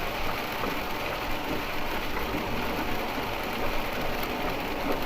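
Steady noise inside a BT Cruiser motorhome's cab while it drives in rain: rain on the windshield and body blended with road and engine noise.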